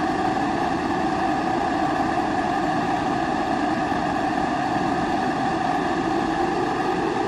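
Kerosene pressure stove (primus burner) burning steadily, giving an even, unbroken rushing sound with a low hum underneath.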